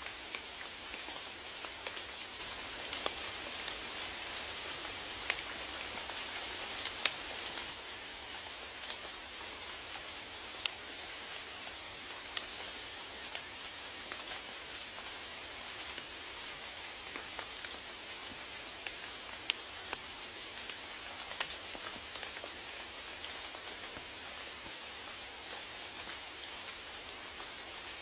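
Steady rain, a continuous hiss with sharp individual drop ticks scattered through it; a little heavier in the first several seconds, easing slightly about seven or eight seconds in.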